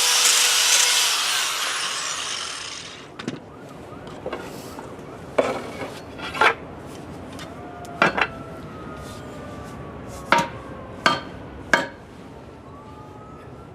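A power tool works the new wooden adze handle: a loud, steady whirring that winds down and fades by about three seconds in. It is followed by a series of sharp, irregular knocks of wood and tools being handled.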